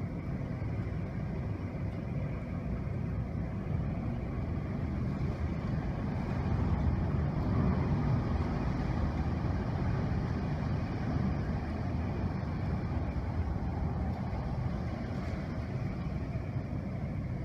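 Hurricane wind and rain: a steady rushing noise that grows somewhat louder from about four seconds in.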